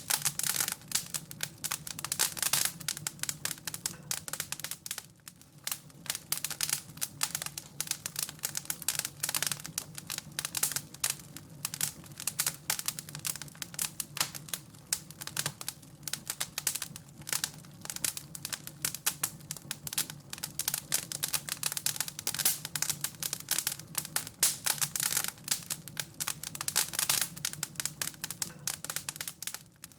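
Wood fire crackling, a dense, irregular stream of small snaps and pops over a faint low steady hum.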